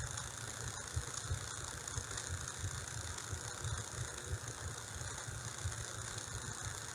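Steady low rumble with a constant hiss over it, no clear events.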